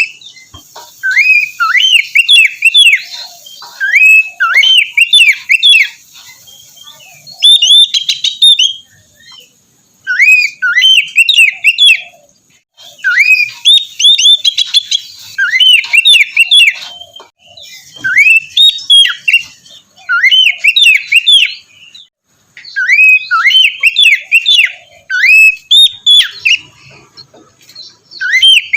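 Oriental magpie-robin (kacer) singing: loud phrases of swooping, whistled notes, each phrase a second or two long, repeated after short pauses.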